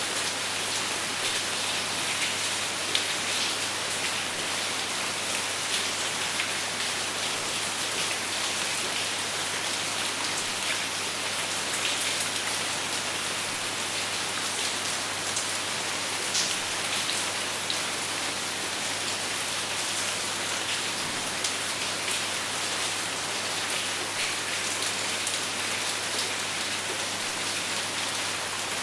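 Steady rain falling on a surface: a dense, even hiss with scattered sharp drop ticks, without thunder.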